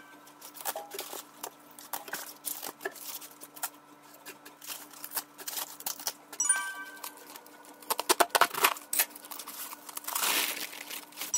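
Crisp crackling and snapping as the outer leaves of a napa cabbage are torn off by hand, with a short bell-like chime sound effect about six and a half seconds in and a longer rasping crunch near the end.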